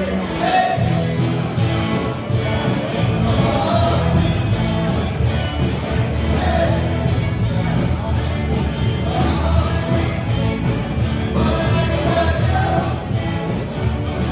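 Rock band playing with a singer. Drums and cymbals come in with a steady beat about a second in, over a heavy bass.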